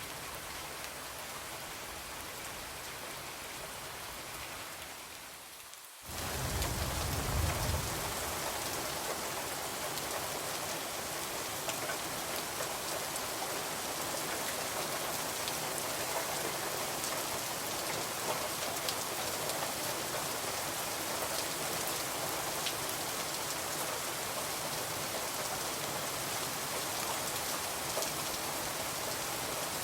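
Steady rain falling on a window, with scattered small ticks. About six seconds in, the sound briefly dips and then comes back louder, with a short low rumble, before settling into steady, heavier rain.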